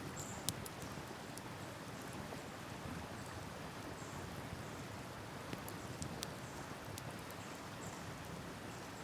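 Wood campfire crackling, with scattered sharp pops over a steady rushing background.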